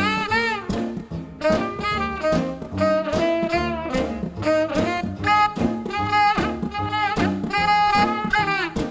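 1950s R&B record: a saxophone plays a lead line of short, bending notes over the band's rhythm section.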